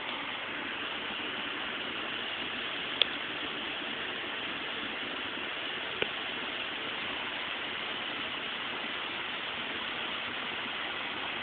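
Steady rushing hiss of background noise, broken by two sharp clicks about three seconds apart.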